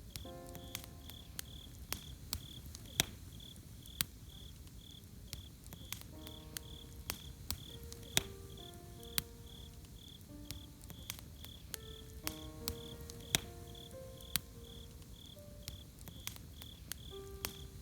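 Campfire crackling, with sharp irregular pops of burning wood over a low steady hiss, while a cricket chirps in an even pulse about three times a second. A few soft melodic notes sound in small clusters.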